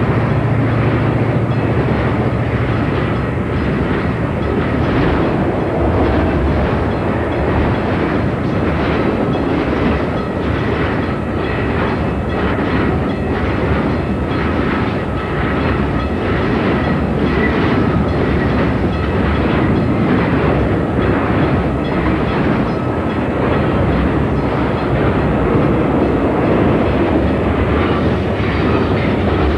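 Southern Pacific freight train's cars rolling past close by: a steady heavy rush of rolling noise with the wheels clicking rhythmically over rail joints.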